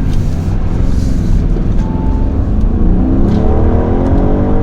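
Audi RS Q8's twin-turbo V8 under hard acceleration, a steady low rumble whose engine note rises in pitch from about halfway through.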